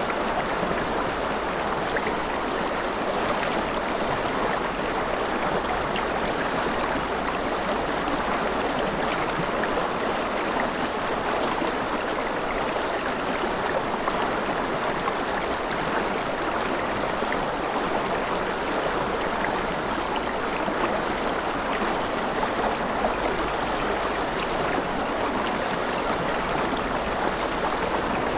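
River water flowing and splashing in a steady, even rush with small splashes and drips throughout.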